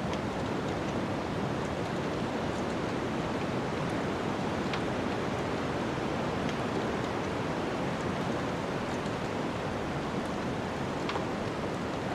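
Wood fire in a fireplace crackling, with a few scattered sharp pops, over a steady rushing noise.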